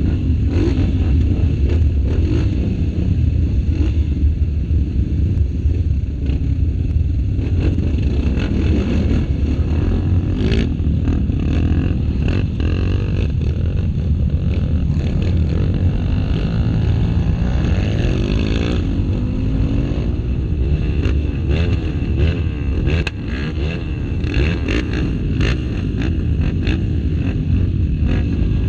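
Dirt bike engines running, the revs rising and falling, with scattered clicks and knocks throughout.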